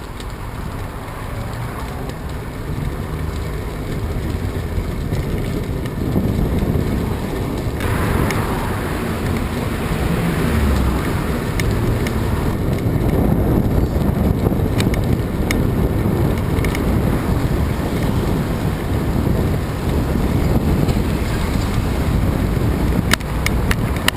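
Strong wind buffeting the microphone: a dense, steady rumble of noise, heaviest low down, that grows louder over the first several seconds. A few sharp clicks come about a second before the end.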